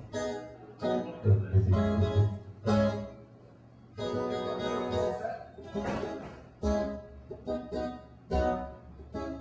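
Guitar playing strummed chords with a heavy, bassy low end during a sound check. It breaks off for about a second around three seconds in, then starts again.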